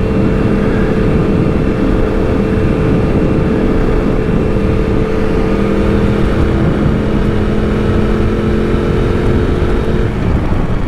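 Yamaha R1 sport bike under way at a steady cruise, its inline-four engine holding an even note over heavy wind rush, the note shifting slightly near the end.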